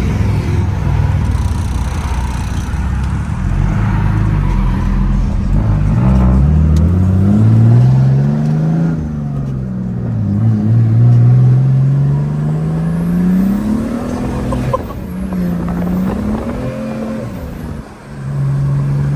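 Turbo diesel Mercedes engine accelerating hard, its pitch climbing then dropping back at each gear change, several times over. The driver says its clutch slips a little, burnt by leaked diesel.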